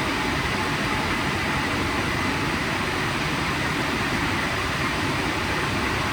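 WashTec SoftCare² Takt portal car wash running, a loud steady rushing noise with a faint steady whine.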